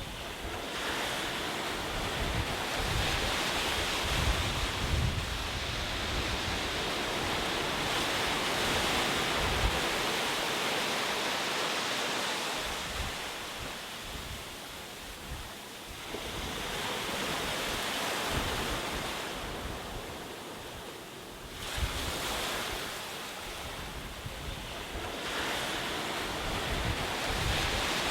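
Ocean surf: waves breaking and washing up, the wash swelling and ebbing in long surges, with a lull about halfway through and a fresh wave breaking near three quarters of the way in.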